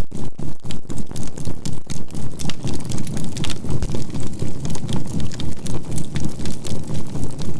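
Campfire crackling with many small sharp pops, under a low synthesized healing tone that pulses evenly about three times a second.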